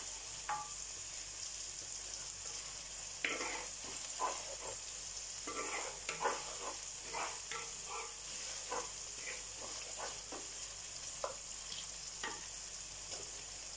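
Chopped shallots and green chillies sizzling in hot oil in a clay pot, with a steady hiss. A wooden spatula stirs them, its strokes scraping against the clay at irregular intervals.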